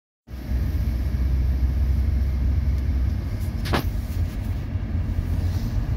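Steady low rumble of a car in motion, heard from inside the cabin, with one brief sharp squeak about three and a half seconds in.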